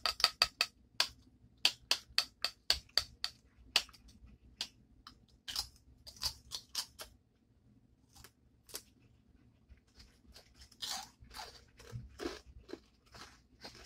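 Crunchy tortilla chips being bitten and chewed close to the microphone. A fast run of sharp crunches comes over the first few seconds, thinning to scattered crunches, with softer chewing near the end.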